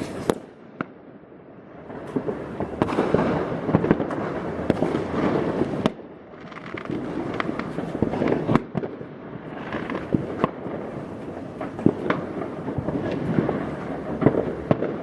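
Many fireworks and firecrackers going off at once: a steady crackle of overlapping sharp bangs and pops, briefly thinning out about a second in and again around six seconds in.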